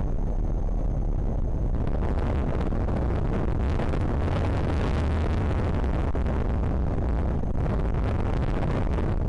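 Strong wind buffeting the microphone, a steady loud low rumble with a rushing hiss that swells and eases slightly.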